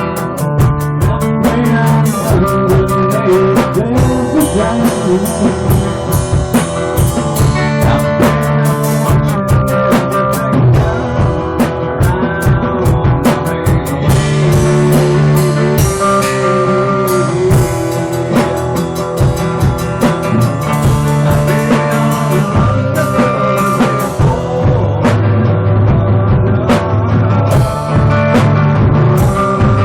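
Loud rock music: guitar over a drum kit keeping a steady beat, with sustained notes throughout.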